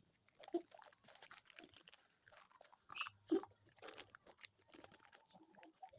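A person chewing crunchy food close to the microphone, with irregular crunches, louder bites about half a second in and around three seconds in.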